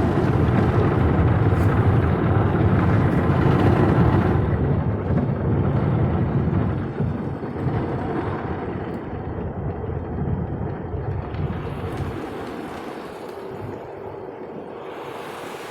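Automatic tunnel car wash heard from inside the car as it moves through: water spray and brushes working over the body, a heavy, even wash noise that eases off about twelve seconds in.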